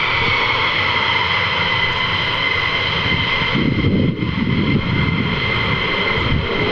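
Jet aircraft engines running with a high turbine whine that glides down slightly at first and then holds steady, over a loud rush of jet noise. A deeper rumble swells about halfway through.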